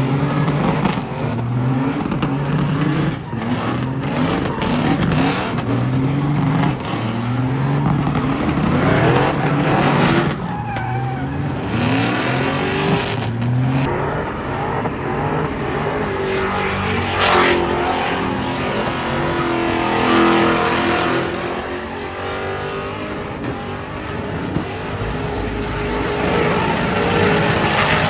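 Burnout truck's engine revving hard, climbing in pitch again and again, with tyres squealing and skidding.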